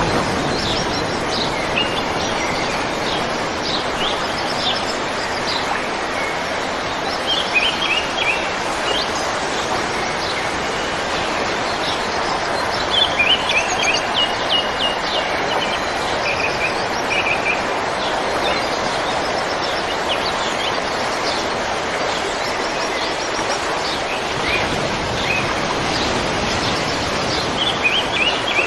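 River water flowing steadily, with small birds chirping over it in short quick series, most densely about a quarter, half and nearly all the way through.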